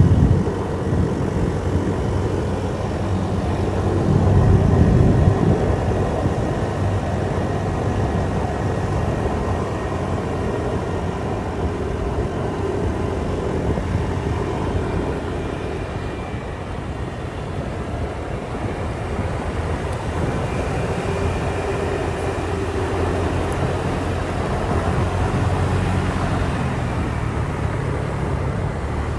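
Motorbike engine running under way, with heavy wind and road rumble. It grows louder for a moment about four seconds in, then holds steady.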